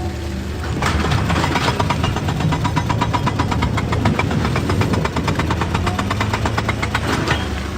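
Heavy diesel machinery running: a steady low engine drone with a rapid, even rattle of about ten knocks a second over it.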